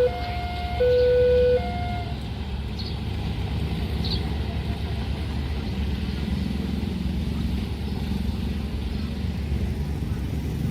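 Level crossing warning alarm sounding its alternating two-note electronic tone, which stops about two seconds in. After that, a steady rumble of passing road vehicles.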